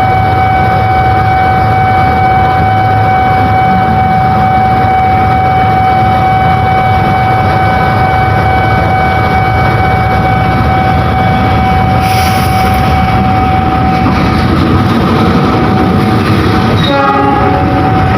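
Train running close by, a loud steady rumble with a high whine held throughout. A short pitched sound that steps in pitch comes near the end.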